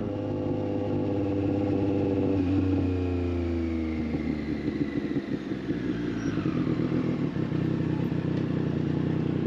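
Triumph Street Triple 765 RS inline-three engine through a Racefit Growler full exhaust, running steadily, then dropping in revs about two and a half seconds in and settling into a low, uneven idle.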